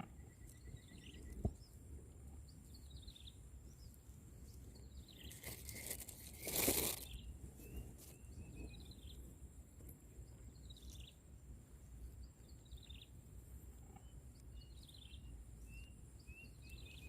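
Faint outdoor ambience with small birds chirping over and over in short notes. A sharp click comes about a second and a half in, and a brief noisy rustle about six seconds in.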